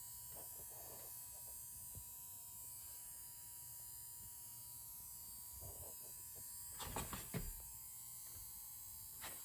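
Faint steady electrical hum with a thin high whine, and a few light knocks about seven seconds in.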